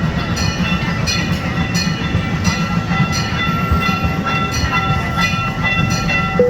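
Gas-powered replica train running steadily: a low engine and running-gear rumble with regular clicks of the wheels over rail joints, about two to three a second.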